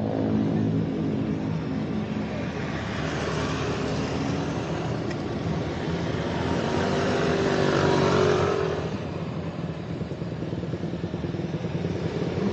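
Exhaust note of a Honda CBR250RR motorcycle with a DST full-system aftermarket exhaust, ridden under power. The engine pitch climbs and grows louder to a peak about eight seconds in, then falls away as the throttle is eased.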